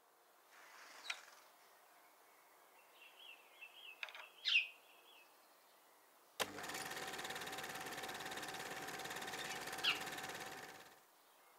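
Faint outdoor ambience with bird chirps: a quick run of repeated chirps and one louder, quick downward call about four and a half seconds in. About six seconds in, a steady engine-like running noise starts suddenly, carries on for about four seconds and fades out.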